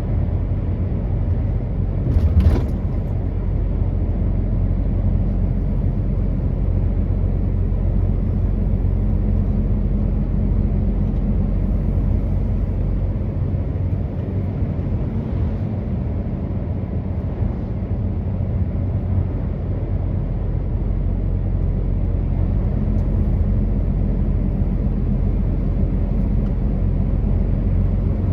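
Truck driving: a steady low engine drone and road rumble, with a brief knock or clatter about two seconds in.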